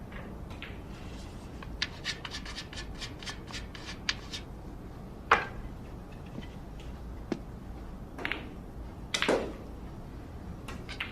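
Cue-sport practice: a scratchy rubbing with a run of quick light clicks, then four separate knocks spread over several seconds, as of cue and billiard balls.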